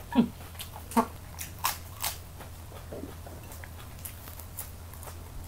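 Close-up chewing of crispy baked chicken wing, with a few loud crunches in the first two seconds, then quieter chewing.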